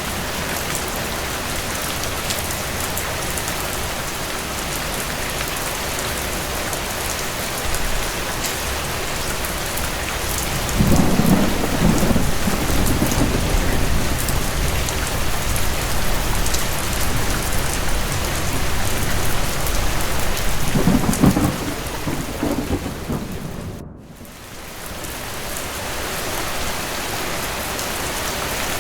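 Steady heavy rain with two rolling rumbles of distant thunder, one about eleven seconds in and another about twenty-one seconds in. The sound cuts out abruptly a few seconds later and fades back in.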